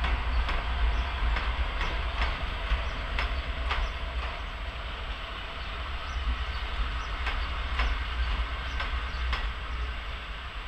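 Double-deck passenger train rolling past close by. Its wheels click unevenly over the track, about a dozen times, over a steady rolling hiss and a low rumble.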